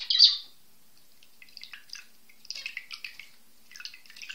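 A small bird chirping in short high bouts, loudest in the first half second, then fainter chirps in three bouts.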